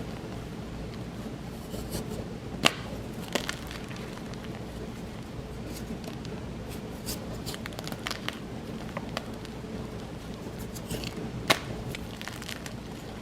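Gym chalk blocks crunching and crumbling in scattered, irregular crackles over a faint steady hum, with sharper cracks about two and a half seconds in, again a moment later, and near the end.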